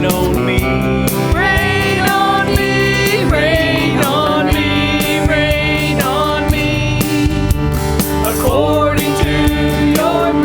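Gospel song: a solo voice singing a gliding melody over instrumental backing with a steady beat.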